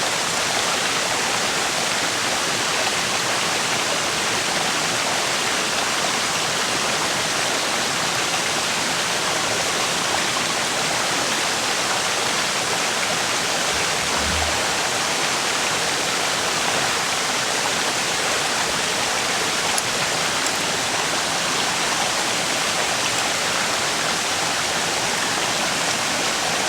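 A river rushing over stones, a steady, unbroken water noise.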